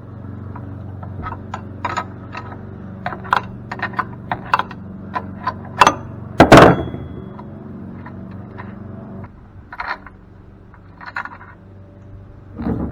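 A wrench working on a large bolt of a cast-aluminum pump, making irregular metallic clicks and taps, with one loud metal clank about six and a half seconds in. A steady low hum runs underneath and stops about nine seconds in.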